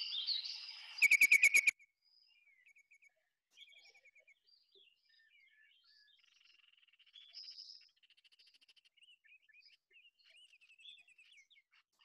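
Recorded wild bird calls: a loud, rapid rattle of about eight notes about a second in, then quieter, varied chirps and short trills.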